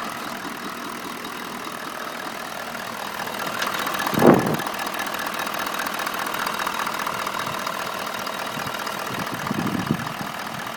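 Toyota Land Cruiser 200 engine idling warm with a steady tuk-tuk-tuk knock. The owner says the knock comes only once the engine is warm and stays whether in P, D or N. A single loud thump sounds about four seconds in.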